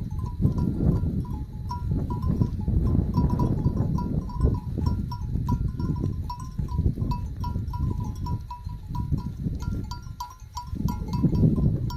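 Many small livestock bells clinking irregularly, as from a flock on the move, over a steady low rumble.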